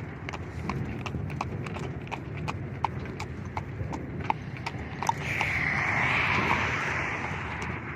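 Hooves clip-clopping at a steady walk on a hard road, an animal being urged along. For a couple of seconds past the middle a rushing hiss rises over the hoofbeats and then fades.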